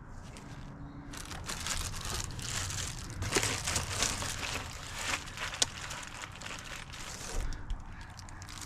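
Crinkling and rustling from hands at work, with many small clicks and light knocks mixed in.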